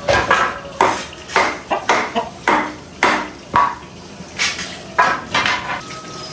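Dishes and pots clanking against each other, about a dozen uneven knocks that each ring briefly.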